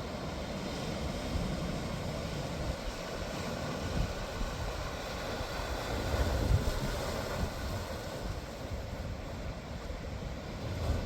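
Wind buffeting the microphone, with uneven low rumbling gusts over a steady rushing noise.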